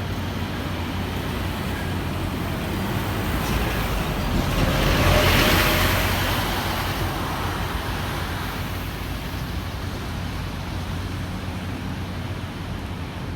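Road traffic: a steady low engine hum with tyre and road noise, as one vehicle passes close, swelling to its loudest about five seconds in and then fading.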